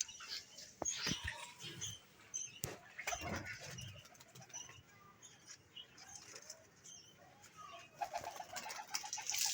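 Pigeons cooing softly among scattered high chirps from budgerigars, with a few sharp clicks and wing flaps.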